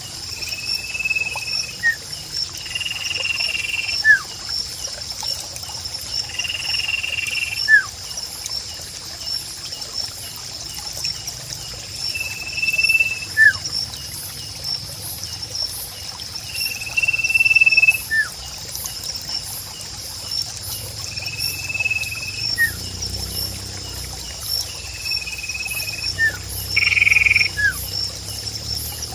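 Sirpu bird calling over and over, each phrase a flat whistled note followed about a second later by a short quick note, repeating every few seconds. Behind it is a steady high trill of insects or frogs and trickling water.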